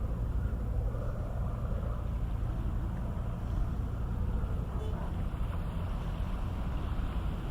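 Ferry engines running with a steady low rumble.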